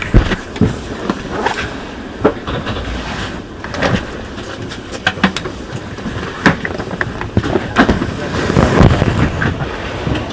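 Luggage being handled and stowed in a train compartment: a string of knocks, bumps and clatters, the loudest right at the start and again near the end, over a steady background rumble.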